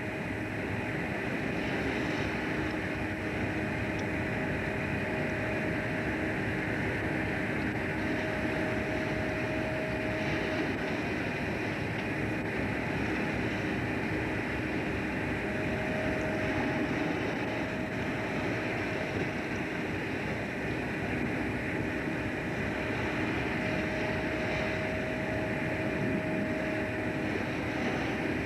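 Fishing boat's engine running steadily with wind and water noise, and a higher whine that comes and goes a few times.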